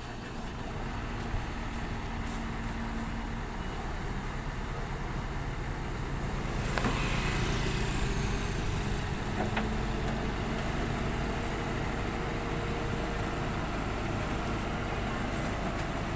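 Heavy diesel machinery running steadily, its engine growing louder about seven seconds in, with a couple of short knocks.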